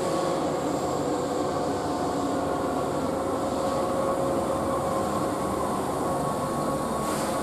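Keihan commuter train moving slowly past an underground platform. Its running sound is a steady hum with a few even tones that neither rise nor fall.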